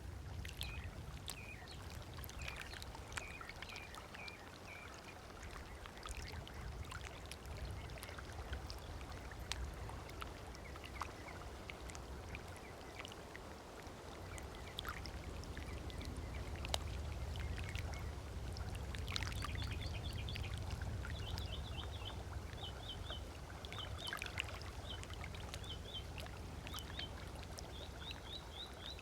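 Small waves lapping and splashing on a sandy shore over a low steady rumble, with birds calling in runs of short repeated chirps near the start and again through the last third.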